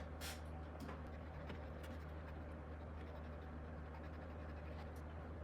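Faint scratching and rubbing from cleaning the wheels of a model locomotive, a few light scrapes over a steady low hum.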